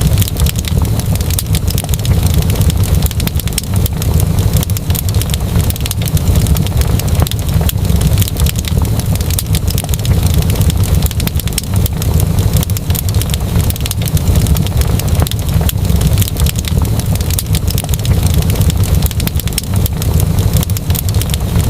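Wood fire crackling steadily: many small pops and snaps over a deep low rumble.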